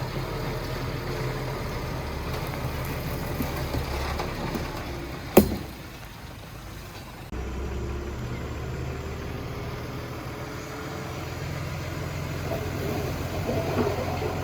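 Heavy machinery's diesel engine running steadily, with one sharp knock about five seconds in, the loudest sound here; the engine sound drops after it and comes back abruptly about two seconds later.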